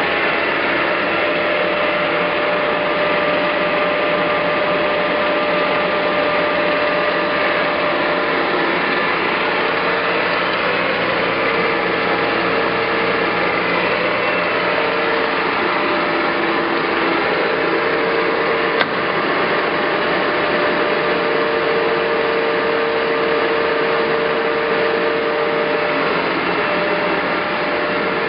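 Clausing Colchester 1760 engine lathe running under power, its headstock gearing giving a steady whine over a constant mechanical hum, with a single sharp click about two-thirds of the way through.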